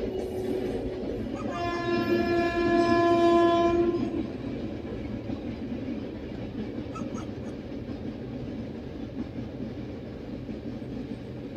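Passenger train crossing a steel girder bridge: the locomotive's horn sounds one long blast about a second and a half in, lasting a couple of seconds and the loudest part, then the steady rumble and clatter of the coaches rolling over the bridge.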